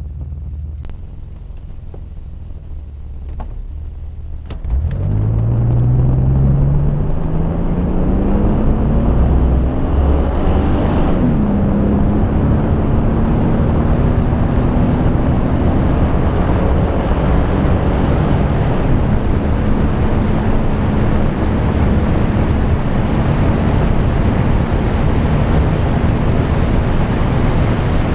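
BMW 6 Series car accelerating hard from a standstill: a low rumble, then the engine note jumps up about five seconds in and climbs through the revs. It drops at a gear change near the middle and keeps climbing slowly in the next gear, with another shift later.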